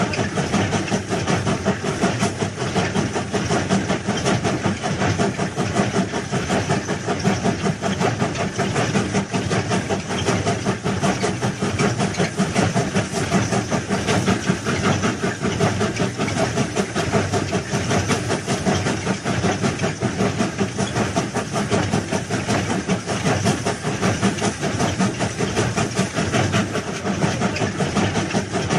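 Heavy railway track-laying machinery's engine running steadily, with a fast, uneven rattle throughout.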